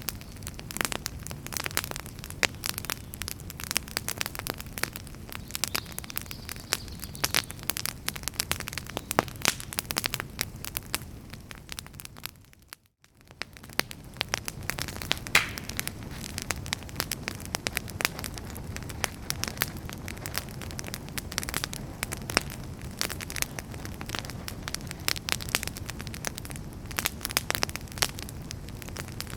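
Wood fire in a fireplace crackling, with dense sharp pops and snaps over a steady low rush of burning. About halfway through the sound briefly fades almost to nothing and comes straight back.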